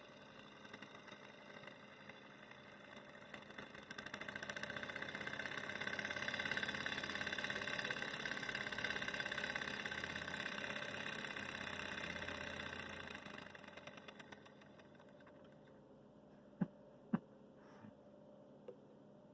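Propane torch flame hissing. The hiss swells over about two seconds, holds steady, then dies away. Two sharp clicks come near the end.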